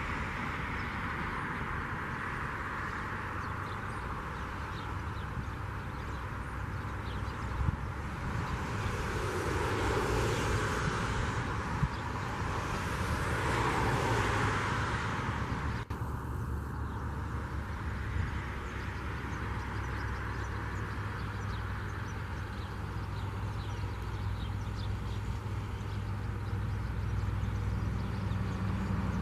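Steady low diesel drone of TasRail TR-class locomotives hauling a log train. A broad rushing noise swells and fades twice around the middle.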